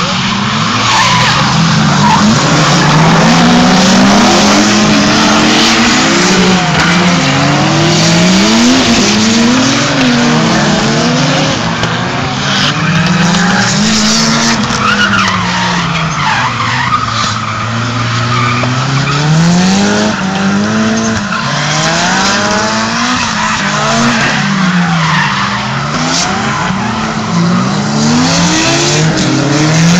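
Drift car engine revving up and down over and over as it slides, with the tyres squealing and skidding.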